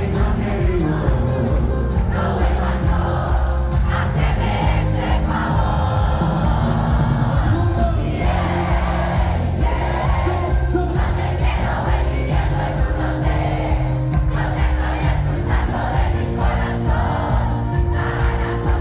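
Live cuarteto band playing with a steady, driving beat and a heavy bass line, with a crowd singing and cheering along.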